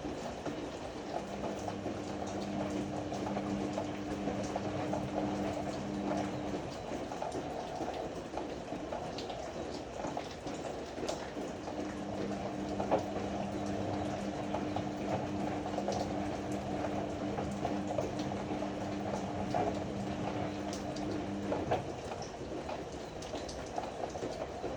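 Ariston AML125 washer-dryer running its cycle: the drum tumbling the load with a steady sloshing rush. The motor hums in two spells, the first from about a second in for five seconds, the second for about ten seconds starting near the middle, with a lull between them.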